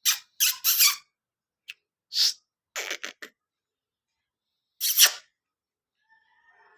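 Pet parrot giving about six short, harsh squawks and chatters, the last and loudest about five seconds in.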